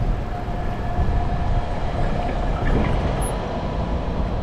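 Steady low rumble of riding noise and city traffic, heard from a moving bicycle, with a faint steady whine in the first second or so.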